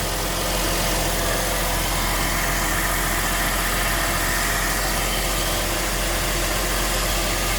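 2001 Porsche Boxster S 3.2-litre flat-six idling steadily, settled at normal idle now that the cold-start fast idle has ended.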